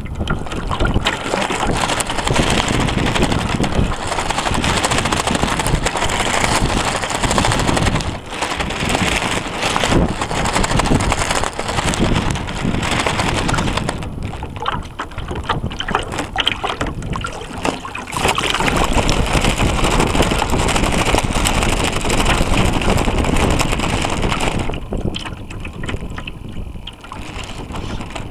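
Wind buffeting the microphone and water rushing along the hull of a North Wind 360 radio-controlled sailboat, heard from a camera on board. The noise swells and eases, dropping off for a few seconds in the middle and again near the end.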